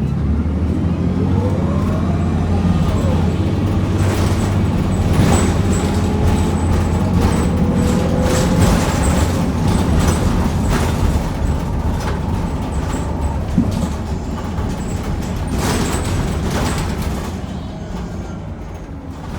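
Onboard sound of a NABI Metro 45C bus's Cummins Westport L9N natural-gas engine and Allison B400R6 automatic transmission pulling the bus along: a steady low engine drone with a whine that climbs in pitch over the first few seconds and then holds, with knocks and rattles from the body. The sound eases off near the end as the bus slows or lifts off the throttle.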